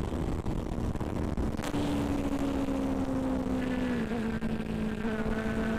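Benelli 600i motorcycle's inline-four engine running at steady revs under road noise, its pitch easing slowly down and dropping a step about four seconds in.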